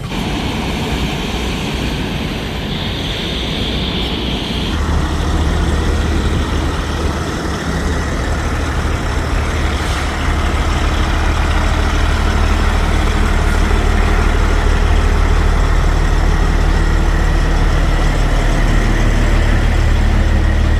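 Motor vehicle engine running steadily with road or engine rumble, a deep hum that gets louder about five seconds in and then holds.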